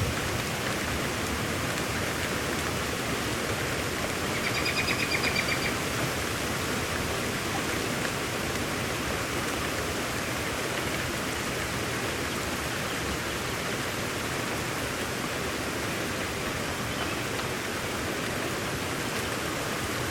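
Steady, even hiss of heavy rain. About four seconds in, a brief high trill rises above it for a second or so.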